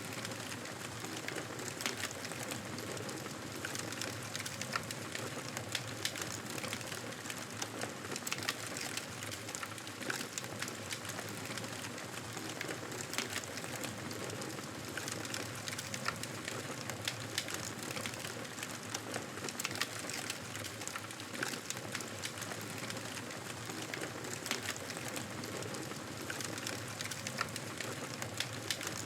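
Wood fire crackling steadily, with frequent sharp snaps over a constant hiss.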